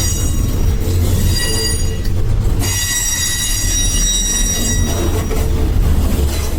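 Train wheels squealing against the rails over a steady low rumble of a train running. The squeal is a cluster of high ringing tones that breaks off briefly about two and a half seconds in, then returns louder.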